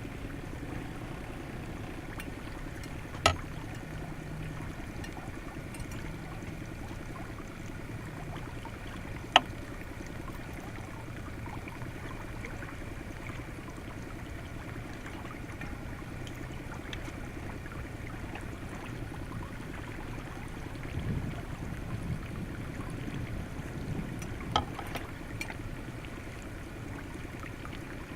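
Water lapping and sloshing steadily against a pontoon boat's hull in choppy, windy conditions. Three sharp knocks or clicks stand out, about three seconds in, near nine seconds and near the end, with some low rumbling shortly before the last.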